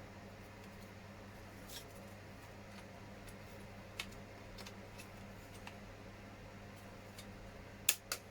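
Small injection-moulded plastic body parts of a model truck being handled and pressed together: scattered light clicks, then two sharper clicks in quick succession near the end, over a low steady hum.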